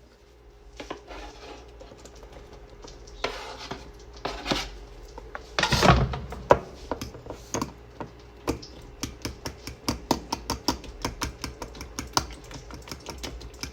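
Kitchen knife chopping vegetables on a cutting board: scattered knocks at first, a louder clatter about six seconds in, then quick, fairly even chops about four a second.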